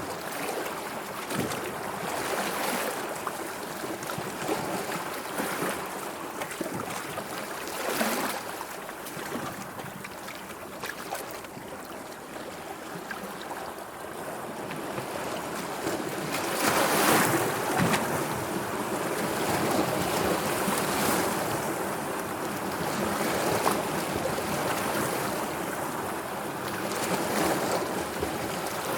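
Sea water washing and lapping, with a surge or splash every few seconds; the loudest comes a little past the middle.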